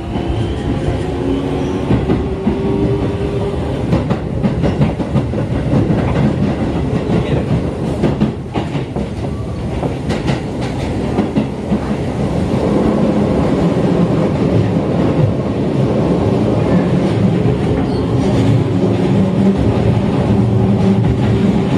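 Electric commuter train running, heard from inside the carriage: a steady hum of motors and wheels on rail. In the middle comes a run of sharp clicks and knocks as the wheels pass over rail joints, and the sound then settles into a smoother, steady running hum.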